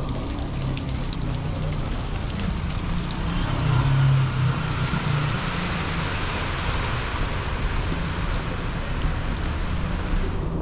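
Heavy rain pouring down on a city street, a steady hiss, with a low rumble of traffic that swells about four seconds in.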